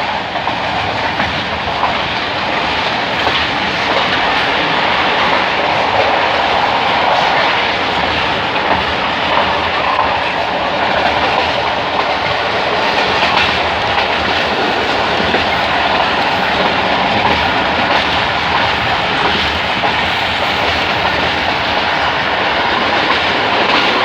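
Coaches of the Millat Express passenger train rolling past at slow speed: a steady, loud rumble with the clickety-clack of wheels over rail joints.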